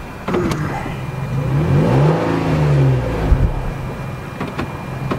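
A motor vehicle's engine nearby, its pitch rising and then falling around the middle, as when a vehicle speeds up and goes past.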